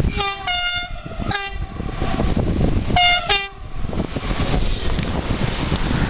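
A French train's two-tone horn sounding two short high-low calls, about three seconds apart, over the rumble of the passing train.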